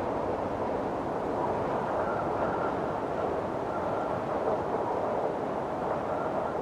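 Windstorm blowing steadily, a dense rush of wind with a faint whistle that comes and goes above it.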